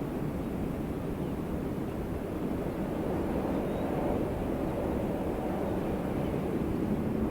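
Steady wind, a low rushing noise with no sharp gusts.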